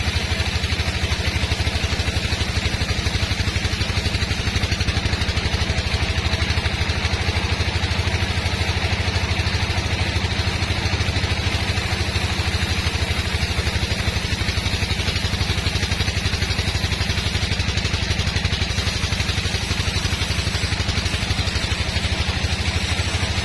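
Sawmill machinery running steadily: a constant, even engine drone with a fast low pulse and no change in pitch or load.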